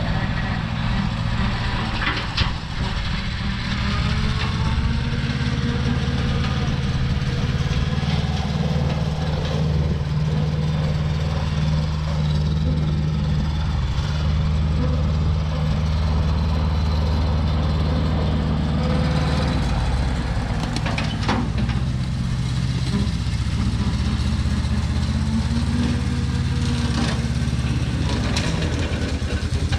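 John Deere 650 compact tractor's Yanmar-built three-cylinder diesel engine running steadily on the hand throttle. A few short clanks and rattles cut through it.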